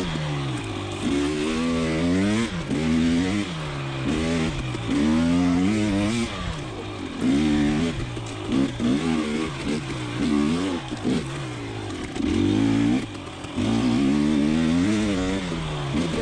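2020 KTM 300 XC TPI's single-cylinder two-stroke engine revving up and down over and over, its pitch rising and falling every second or two as the throttle is opened and closed.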